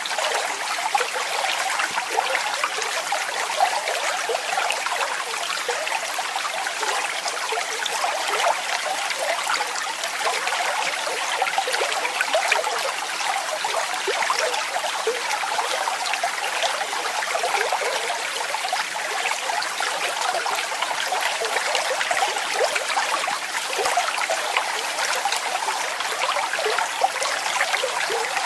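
Waterfall: falling water splashing steadily, a bright, even hiss with no deep rumble.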